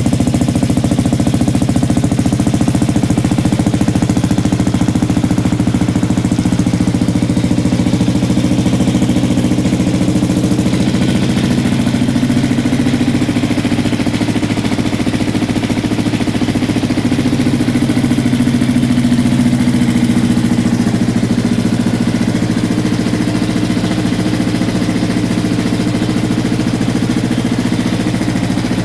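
1996 KTM Duke 620 LC4's single-cylinder four-stroke engine idling steadily, with a slight shift in its note about halfway through.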